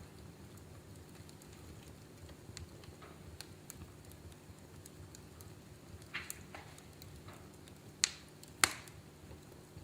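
Wood fire crackling in a fireplace: a steady low hiss of flames with scattered small crackles, a cluster of louder crackles past the middle and two sharp loud pops near the end.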